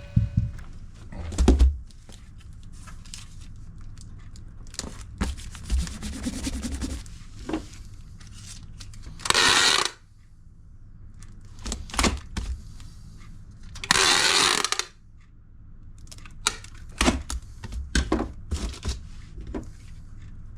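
Parcel packing: knocks and rustling of a cardboard box and packing material, with two ripping sounds about a second long, one near the middle and another a few seconds later.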